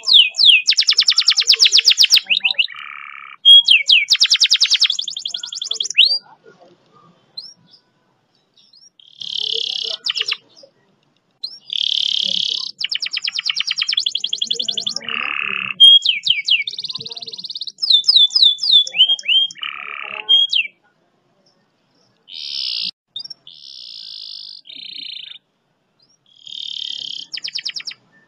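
Domestic canary singing in long, fast rolling trills and runs of quick downward-sweeping notes. The phrases are separated by short pauses.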